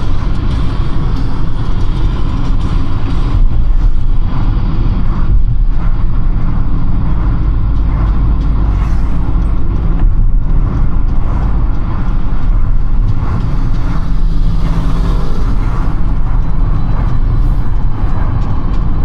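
A car driving in city traffic, heard from inside the cabin: a steady, loud rumble of engine and tyres on the road.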